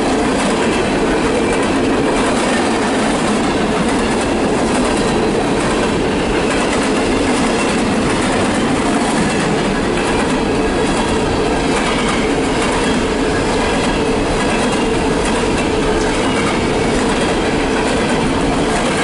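Empty CSX coal cars rolling past, steel wheels running on the rails with a steady, loud rumble and rattle.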